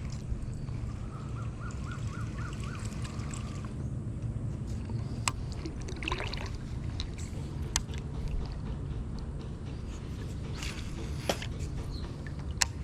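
Water trickling and sloshing around a kayak on a river, over a steady low rumble. A short run of about six quick chirps comes near the start, and sharp clicks sound three times, spaced a few seconds apart.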